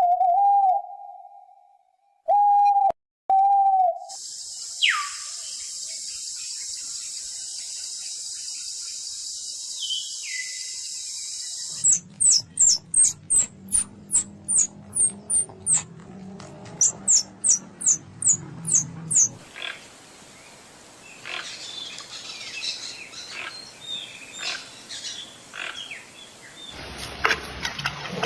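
A run of different animal calls, mostly bird calls. A few short, wavering pitched calls open it. A steady high hiss follows, crossed by two falling whistles. Then comes a rapid series of sharp high chirps at about three a second, and after it scattered chirps.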